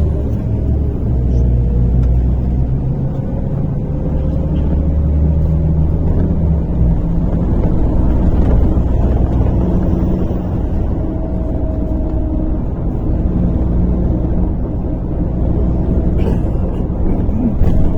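MAZ-103.485 city bus heard from inside the cabin while under way: a steady low rumble of engine and drivetrain, with a faint whine that rises in pitch over the first few seconds. A few short rattles come near the end.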